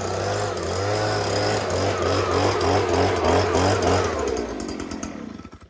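Two-stroke chainsaw on a chainsaw mill running hard through a pine log, its engine note wavering under load, then winding down through slowing ticks and stopping near the end.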